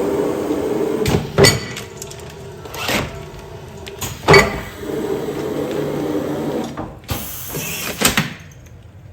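Commercial container sealing machine running through its sealing cycle: a steady hum that comes and goes, broken by several sharp clunks.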